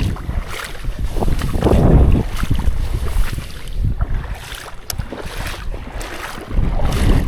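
Wind buffeting the microphone in gusts: a low rumble that swells and fades, with a few short clicks.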